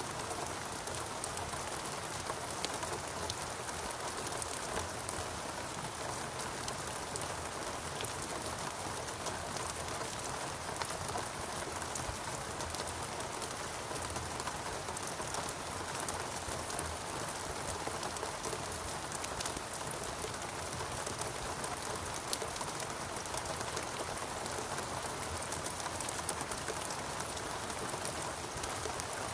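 Steady rainfall, an even hiss of rain with many individual drops ticking close by.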